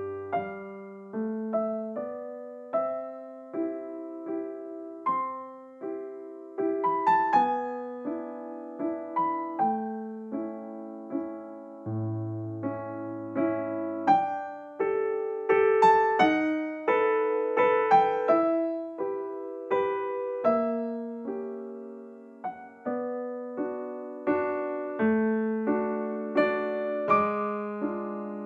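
Soft background piano music: a slow melody of single notes and gentle chords, each note struck and left to fade.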